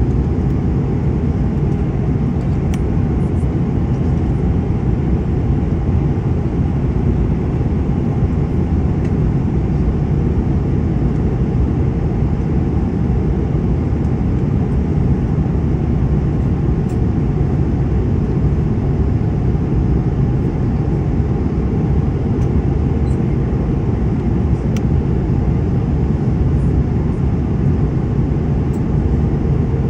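Steady, unbroken low rumble of a moving vehicle.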